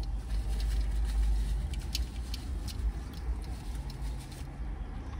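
A person chewing a bite of chicken taco close to the microphone, with scattered small mouth clicks; the chicken is tough and dry. A low steady rumble runs underneath.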